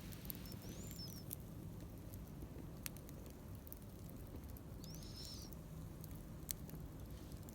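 A small wood fire in a camp fire pit giving a few sparse, sharp crackles over a low outdoor rumble, with two short high bird chirps, about a second in and about five seconds in.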